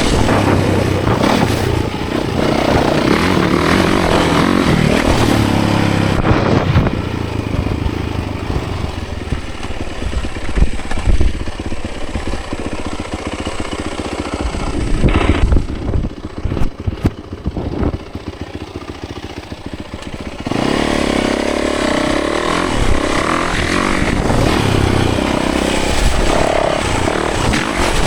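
Yamaha 450 dirt bike engine running under throttle on a trail ride. After about six seconds it eases off for a long stretch while the bike knocks and rattles over bumps, then it pulls hard again near twenty seconds in.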